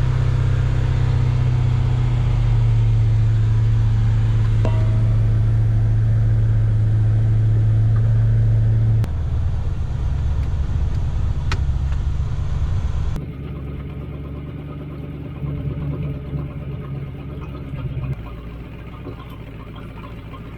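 Volvo Penta sterndrive boat engine running steadily on its first start of the season after sitting for a long time. It is loud and even for about nine seconds, then drops in steps to a quieter, duller idle.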